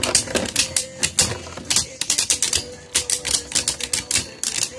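Beyblade Burst spinning tops battling in a plastic stadium: rapid, irregular clacks as the tops strike each other and the stadium walls, over a steady spinning hum.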